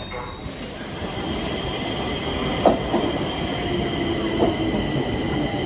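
Stockholm Metro train running on the track, its wheels squealing in steady high tones over the rumble, growing slightly louder. There are two sharp clacks, the first about halfway through and the second later.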